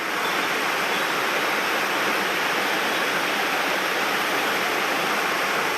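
Mountain stream water rushing: a steady, even rush with no breaks.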